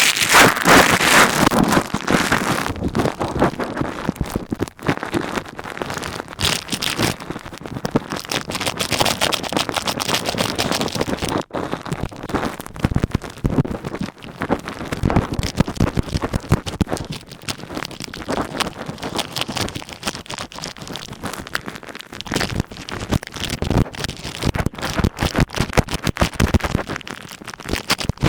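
Ear pick scratching and rubbing on a plastic ear cap: dense, irregular crackling and scraping made of many quick clicks, loudest in the first few seconds.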